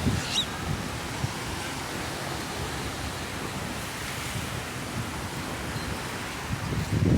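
Steady outdoor rushing noise, even like distant surf or wind through vegetation, with light wind rumble on the microphone and a brief high chirp about half a second in.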